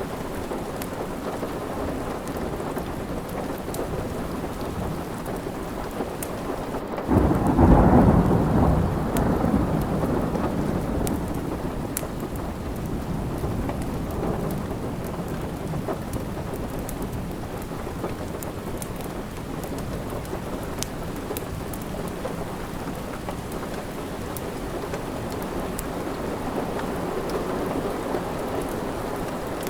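Steady rain with one roll of thunder that breaks suddenly about seven seconds in and fades over several seconds. Scattered faint crackles of a wood fire run through it.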